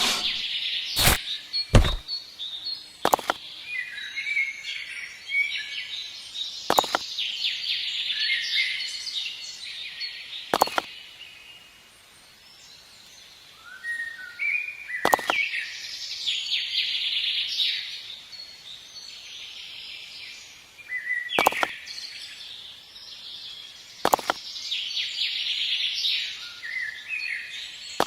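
Small birds chirping in repeated bouts. About eight sharp taps or knocks sound at irregular intervals in between.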